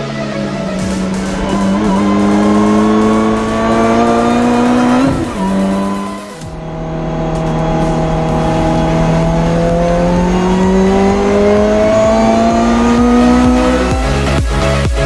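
Race car engine under hard acceleration, its pitch climbing steadily for about five seconds, dropping sharply, then climbing again in one long pull until near the end.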